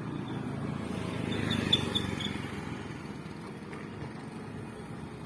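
A small vehicle engine, likely a motorbike, passes by. It grows louder to a peak about a second and a half in, then fades, with a few quick high chirps near the peak.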